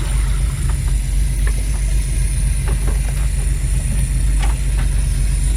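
A fishing boat's engine running steadily with a low drone, with a few faint clicks and knocks over it.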